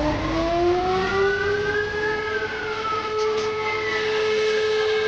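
Sirens sounding. One climbs in pitch over the first second and a half and then holds a steady wail, while a second, higher siren rises and falls over it.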